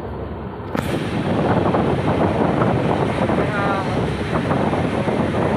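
Passenger train coach running at speed, heard from an open door: a steady noise of wheels on the rails and wind rushing past, which comes in suddenly about a second in.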